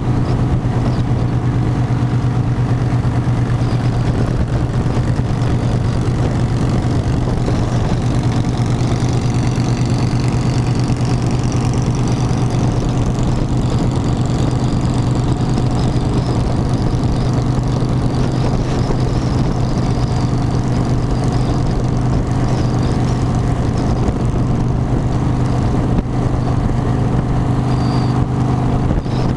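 Harley-Davidson motorcycle engine running at a steady pace, an even drone that holds without revving or changing pitch.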